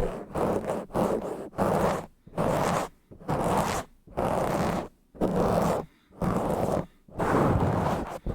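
Rough, fast scratching and rubbing on a bare microphone with no foam cover, in strokes about once a second with short silent breaks between them.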